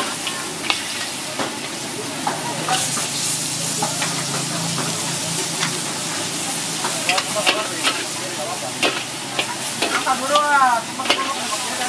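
Mud crabs frying in a very hot wok: a steady sizzle, with repeated clanks and scrapes of a metal spatula against the wok as the crabs are stirred and tossed. The clanks grow busier in the last few seconds.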